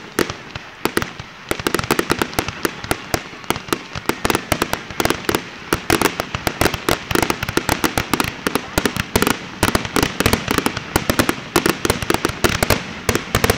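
Fireworks display: aerial shells bursting in quick succession, a dense run of sharp bangs and pops, several a second, thickening after the first second or two.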